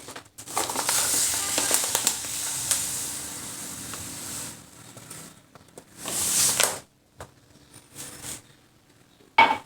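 Granulated sugar being poured from a glass onto lemon peels in a bowl, a long hissing pour lasting about four seconds, then a shorter pour about six seconds in, with a few light clinks.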